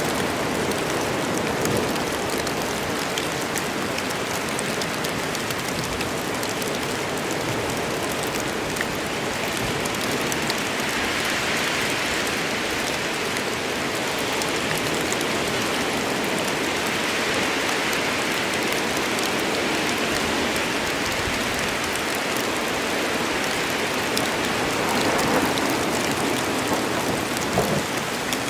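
Rainstorm in a forest: steady rain falling, an even hiss of many drops on surfaces, with a few louder drops or knocks near the end.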